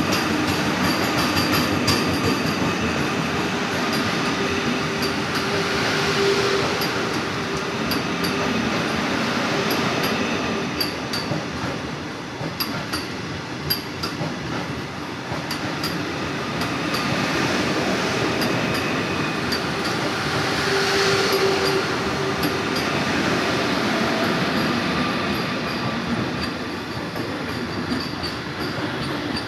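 Train running on the rails: a continuous steady rumble with scattered sharp metallic clicks from the wheels and track, swelling a little twice.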